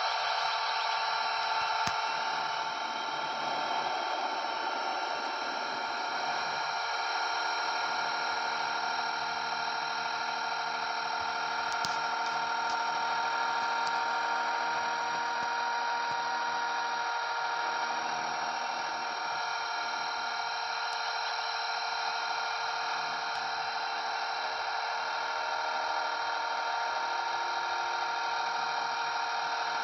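Blade 230S V2 electric RC helicopter in flight: a steady high whine from its electric motor and spinning rotors, holding an even pitch.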